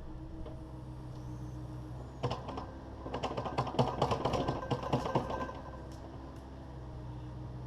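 Takeuchi TB260 excavator's diesel engine running steadily, with a burst of rapid clattering knocks starting about two seconds in and lasting around three seconds: broken concrete and rubble rattling against the steel bucket.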